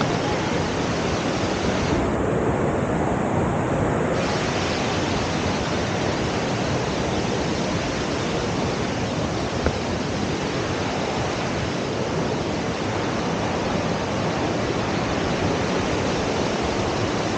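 Waterfall rushing steadily, with one brief click near the middle.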